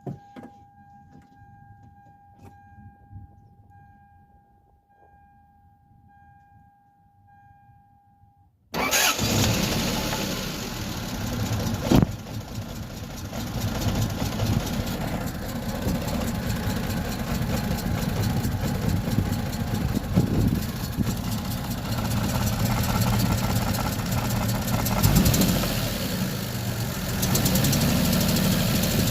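A steady electronic tone sounds for the first several seconds, then a Toyota 2JZ-GE inline-six with distributor ignition starts abruptly about nine seconds in and keeps running. A knock in the engine is there, and its cause is unknown to the owner.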